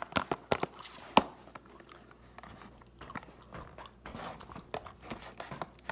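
Close-up chewing of mochi ice cream: scattered wet mouth clicks, the sharpest about a second in, with the cardboard box being handled.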